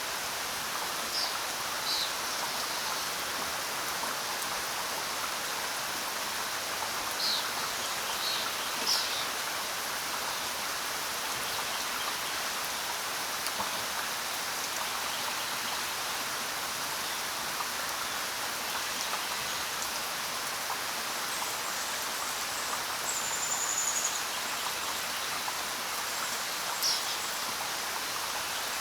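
Steady rain falling, a dense even patter, with a few short high bird chirps scattered through it and one brief whistled note about two-thirds of the way in.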